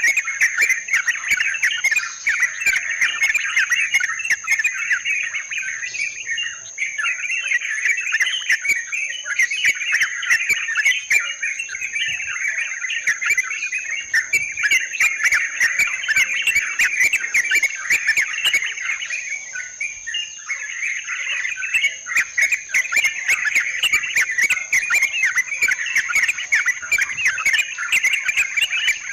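Yellow-vented bulbuls (trucukan) chattering and calling in a dense, continuous stream, with a steady high-pitched tone running underneath.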